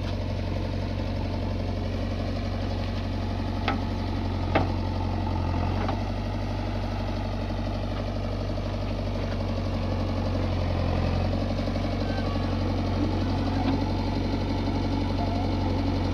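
Heavy diesel engine of a JCB backhoe loader or tractor running steadily under load, with two sharp metallic knocks a little under a second apart, about four seconds in.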